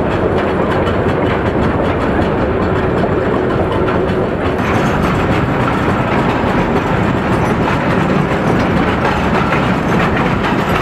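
Steam-hauled tourist train running along the track: a steady, even noise of the cars and wheels on the rails.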